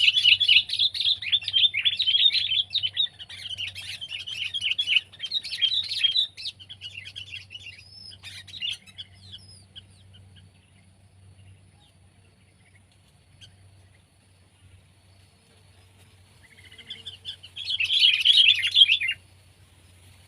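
Sooty-headed bulbul calling: a run of rapid chattering notes for about six seconds that thins out and stops, then another short burst near the end.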